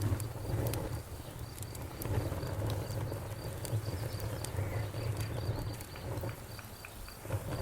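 Fire crackling: a steady low rumble of flames with scattered small crackles and snaps.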